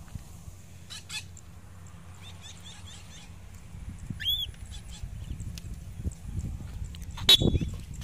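Birds chirping, with a run of short chirps about two to four seconds in and then one clearer, higher call that rises and falls, over a steady low rumble of wind on the microphone. A sharp knock near the end is the loudest sound.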